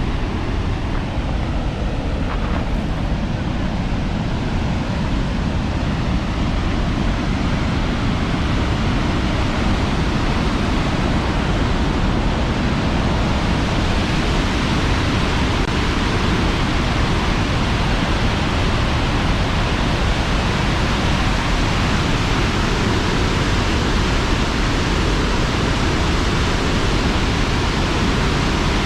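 Tännforsen waterfall's water rushing in a steady, dense noise, growing a little brighter and louder over the first half.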